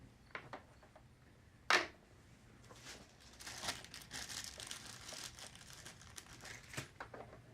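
Irregular crinkling and rustling, like plastic packaging being handled, with a few light knocks and one sharp click about two seconds in.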